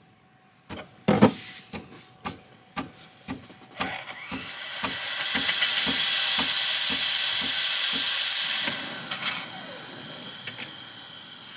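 Espresso machine steam wand hissing loudly for about five seconds, then dropping to a softer hiss, over a regular ticking about twice a second.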